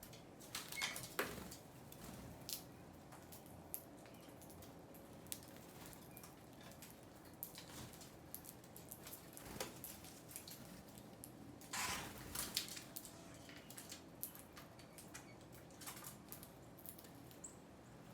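Faint, irregular taps and clicks of small birds feeding, with a few brief rustles about a second in and again about twelve seconds in, and a short high chirp near the end.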